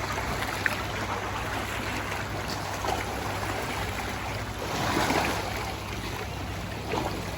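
Sea water washing and lapping at the shore, over a steady low drone; a louder wash swells up about five seconds in.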